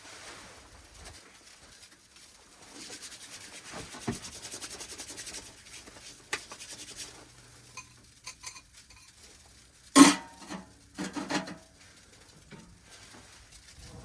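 Metal utensil scraping in a pan of cooked steak pieces, with a few seconds of quick, even scraping strokes. About ten seconds in comes one sharp metallic clank, then a few lighter clinks.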